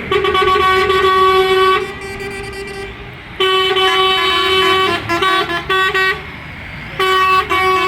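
A vehicle horn sounding at one steady pitch: a long blast, a pause, then another long blast broken into several short toots, and a further blast near the end, over a low engine rumble.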